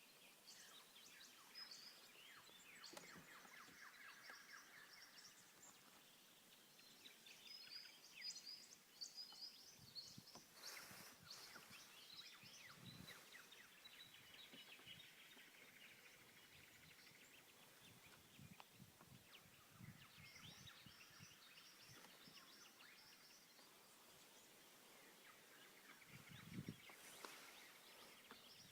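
Faint birdsong: many small birds chirping and trilling in the distance, over a near-silent background, with a few soft low bumps now and then.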